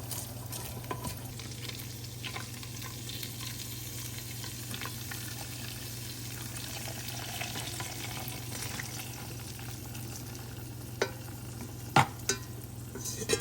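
Hot grease sizzling in a frying pan after meatballs were fried, a steady hiss over a low hum. Utensils knock against the pan twice near the end, the second knock louder.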